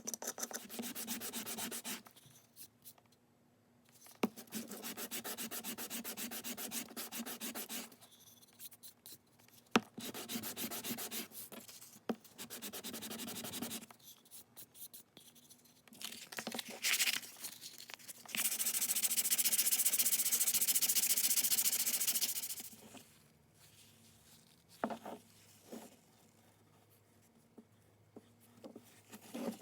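Sandpaper rubbed in quick back-and-forth strokes over a wooden hand-plane tote and knob, in several spells separated by pauses. Past the middle, a louder steady hiss lasts about four seconds, followed by a few light handling knocks.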